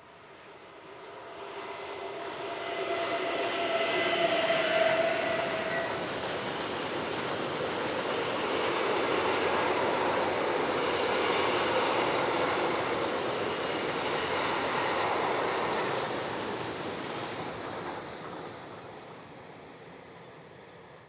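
SNCF train approaching and passing by, growing louder with a few steady tones over the wheel and rail noise, running loud for several seconds, then fading away before cutting off abruptly.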